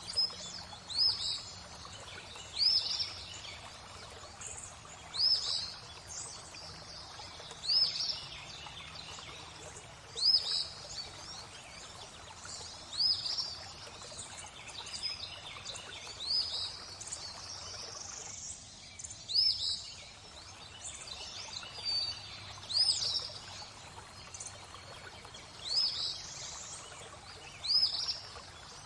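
A songbird repeating a short, high, hooked call every two to three seconds over the steady hiss of flowing, trickling water.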